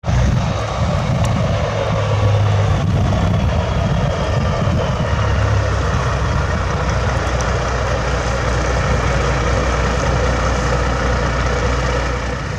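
Heavy diesel snow-removal equipment running steadily: a dump truck idling and a front-end loader with a snowblower attachment, a deep engine hum under a loud even rush of machinery noise.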